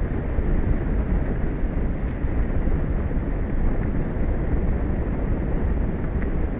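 Steady low rumbling wind noise buffeting an outdoor microphone, uneven and without rhythm.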